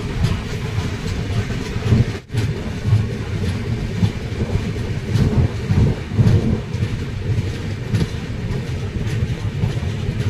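Passenger train running on the rails, heard from on board: a steady low rumble with irregular louder swells. It breaks off briefly about two seconds in.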